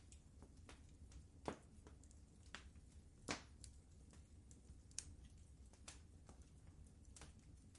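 Wood fire crackling in a fireplace: faint, irregular pops and snaps, the sharpest about a second and a half and three seconds in, over a low steady background.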